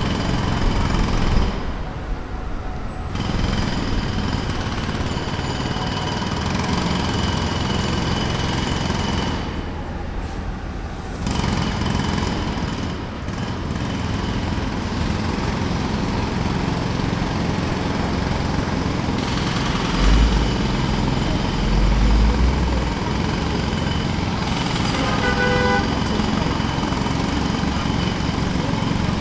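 Jackhammer hammering at a road demolition site, running in long stretches and breaking off briefly twice.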